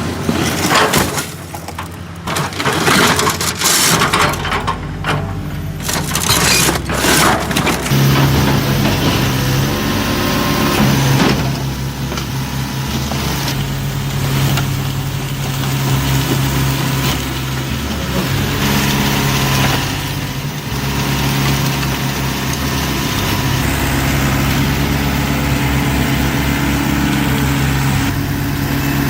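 Crunching and cracking of a car body being crushed by a large excavator for about the first eight seconds. After that a heavy diesel engine runs steadily, its pitch shifting up and down at times.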